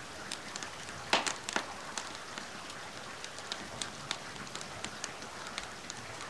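Steady rain hiss with a wood fire crackling over it, sharp pops scattered throughout and a quick run of louder pops a little over a second in.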